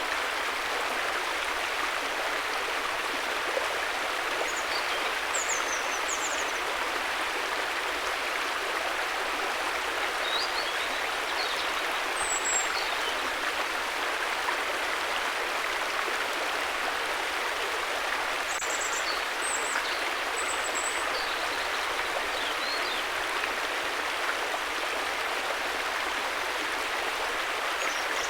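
A river's water rushing over stones, a steady, even flow with no let-up. Faint high chirps are heard now and then above it.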